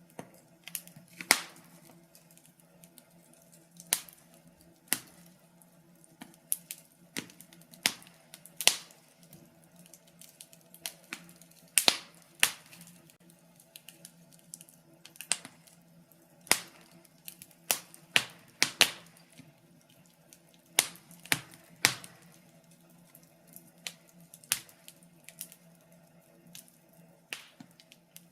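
Wood fire crackling: irregular sharp pops and snaps from burning logs, a few louder cracks among many small ones, over a faint steady low hum.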